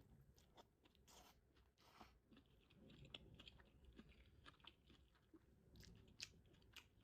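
Faint chewing of food close to the microphone: scattered small wet mouth clicks and soft crunches, more frequent from about halfway through.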